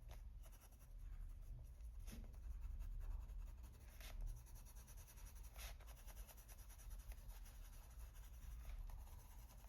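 Faint scratching of a coloured pencil stroking across paper as a drawing page is coloured in, with a few soft taps.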